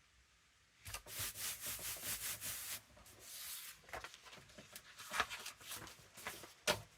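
Paper being rubbed and handled on a work surface: about a second in, a quick run of scraping rubbing strokes lasting around two seconds, followed by lighter rustles and a few sharp taps.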